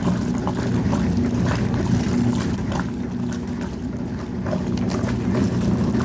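Vintage Whirlpool washing machine running with a steady motor hum as the agitator churns soapy water.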